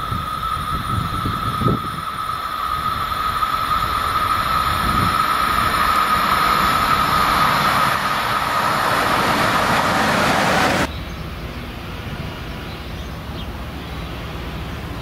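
Electric locomotive hauling a passenger train approaches, with a steady high whine over a rolling rumble that grows louder as it nears. About 11 seconds in the sound cuts abruptly to the quieter, steady low hum of a diesel shunting locomotive.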